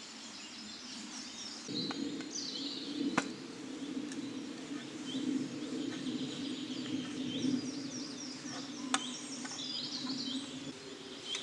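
A knife blade working on a tin can as it is cut open, with two sharp metallic clicks and a steady scraping, while small birds chirp throughout.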